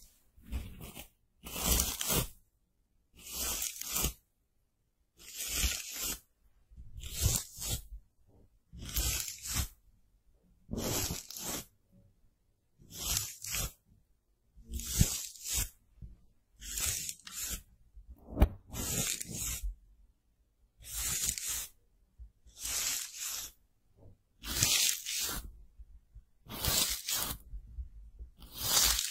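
Close-miked scratchy strokes, about fifteen of them, one every two seconds or so, each lasting under a second, as a makeup tool or packaging is worked against the microphone.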